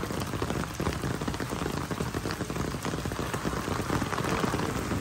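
Rain falling steadily on pond water, a dense spatter of small drops.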